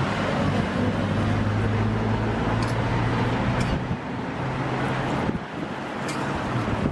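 Roti frying in oil on a flat steel griddle, a steady sizzle, over a steady low engine-like hum that eases slightly about two-thirds of the way through.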